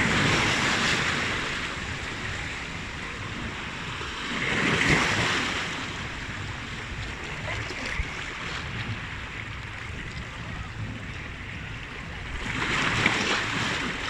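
Sea waves washing ashore, with a steady surf hiss and three louder swells as waves break: at the start, about five seconds in, and near the end.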